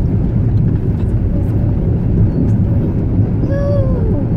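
Steady low rumble of a car driving through a flooded street, its engine running under the noise of the moving vehicle. A voice is heard briefly near the end.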